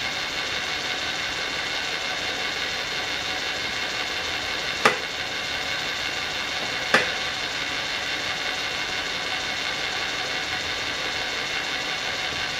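Geared metalworking machine tool running at speed, a steady mechanical whir with gear whine, with two sharp clicks about five and seven seconds in.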